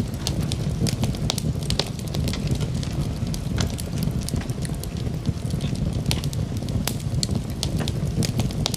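Wood fire burning in a fireplace: a steady low rumble of flames with sharp, irregular crackles and pops from the burning logs, several a second.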